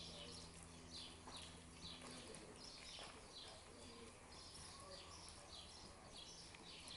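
Faint, quick chirping of small birds, short falling chirps about twice a second, over a low hum that stops about two seconds in.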